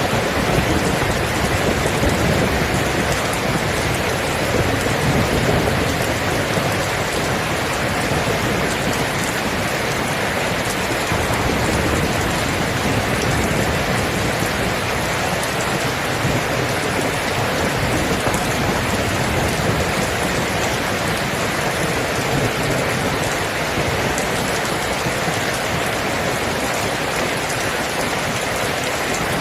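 Steady, heavy rain falling, an even rushing hiss with no breaks.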